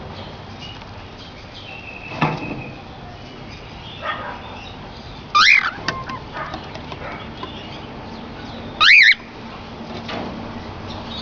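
Cockatiels calling: two loud, short chirping calls about three and a half seconds apart, each sweeping up and back down in pitch, with a softer flutter or rustle a couple of seconds in.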